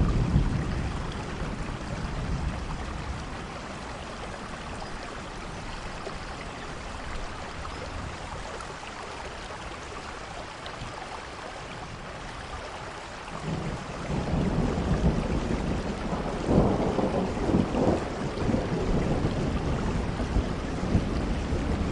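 Steady rainfall with thunder rumbling. There is a brief low rumble right at the start. About two-thirds of the way through, a longer rolling rumble builds and peaks a few seconds later.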